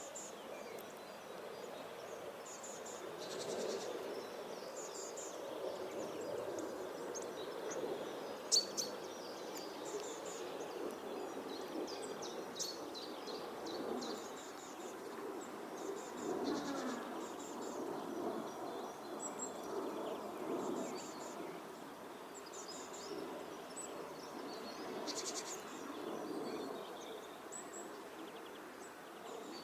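Garden songbirds chirping and twittering in short, repeated calls over a steady low background hum of outdoor noise, with one sharp tick about eight seconds in.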